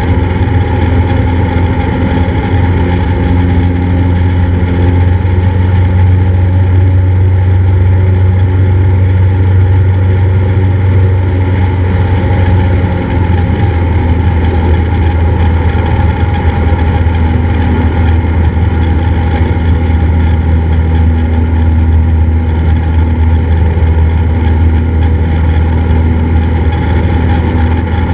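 Cessna 172's piston engine and propeller droning steadily in flight, heard from the cockpit.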